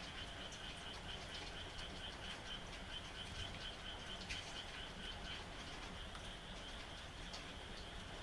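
A chorus of frogs calling in a steady, fast-pulsing trill, with scattered raindrop ticks over a low, even rain hiss.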